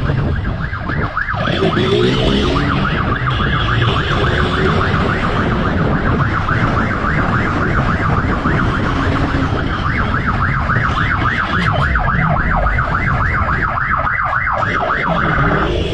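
Police siren on a fast yelp, its pitch rising and falling about five times a second, over a heavy low rumble of wind and engine noise.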